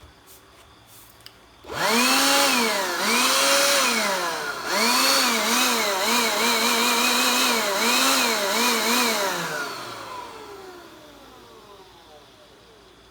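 Electric handheld dust blower switched on: its motor whines up to speed and rises and falls in pitch about a dozen times as the trigger is pulsed, then is let go about nine seconds in and winds down with a falling whine.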